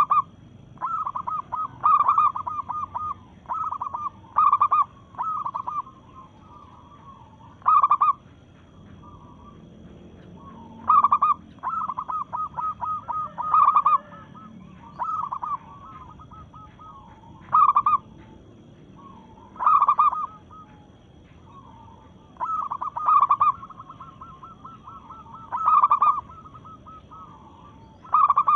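Female zebra dove (perkutut) cooing. Each phrase is a loud note followed by a quick string of softer staccato notes, repeated about every two seconds.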